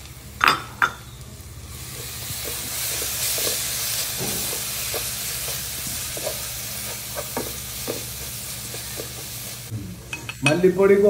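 Onion-and-spice masala sizzling in coconut oil in a nonstick pan while a wooden spatula stirs and scrapes it. Two sharp knocks come about half a second in; the sizzle swells about two seconds in and drops away about a second before the end.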